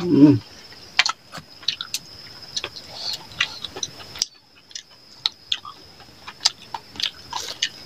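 Close-up eating sounds of two people eating rice and chicken curry by hand: irregular wet chewing, lip-smacking and mouth clicks. A short low voice-like sound, the loudest thing, comes right at the start.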